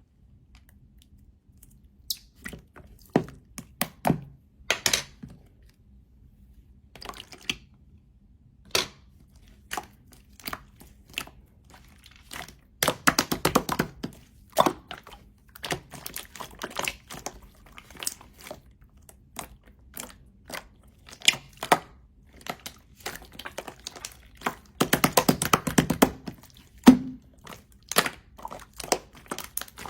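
Slime of the 'melted cheese' kind being squeezed and pressed by hand, making irregular sticky clicks and pops, with two denser runs of crackling about 13 and 25 seconds in.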